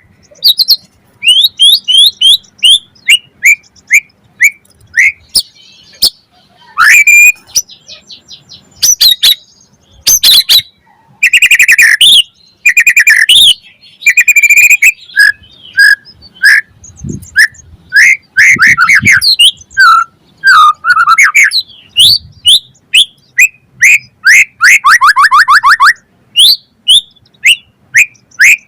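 White-rumped shama singing loudly: a varied song of short whistled notes and sweeping chirps, broken by harsh buzzy bursts and a rapid trill near the end.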